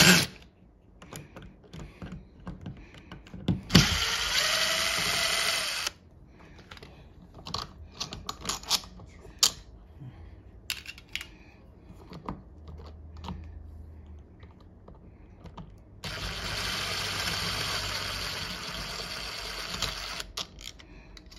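A power driver runs twice, once for about two seconds and once for about four, backing out the screws of an old deadbolt. Between the two runs come scattered clicks and knocks of metal lock parts being handled.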